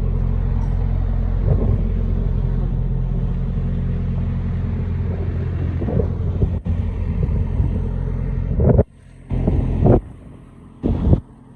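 Truck engine running steadily while driving, a low drone. Near the end the sound cuts in and out in short bursts.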